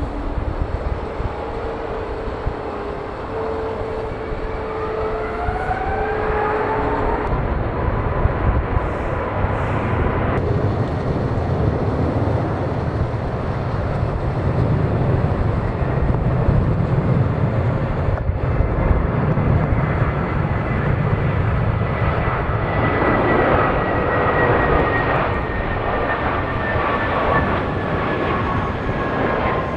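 Jet airliner engines during takeoff: a whine rises in pitch early on, then steady, loud jet engine noise, with high tones slowly falling in pitch as the aircraft goes past.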